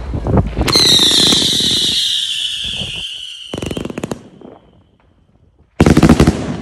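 Firework cake going off: a loud whistle falling in pitch for about three seconds, then a short burst of crackling. After a brief lull, a loud burst of bangs comes near the end.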